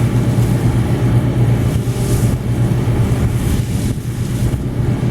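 Diesel engine of a farm machine (combine harvester or tractor) running steadily under harvest work, a low even drone with a little wind noise.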